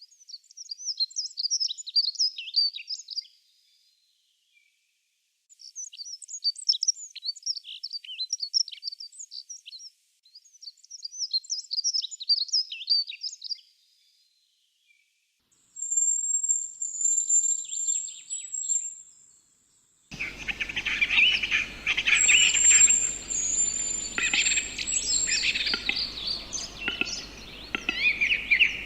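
Songbird singing rapid, twittering high-pitched phrases, three of them three to four seconds long with short silent gaps between. A thin, very high trill follows, and about two-thirds of the way in a denser mix of bird calls comes in over steady background noise.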